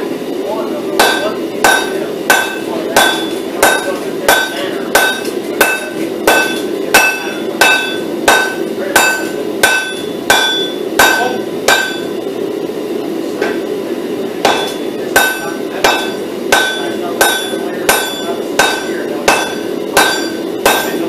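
Hammer blows on hot steel on an anvil, a little under two a second, each with a short metallic ring, as the pattern-welded billet is drawn out. The blows stop for about two seconds past the middle, then resume, over a steady low rumble.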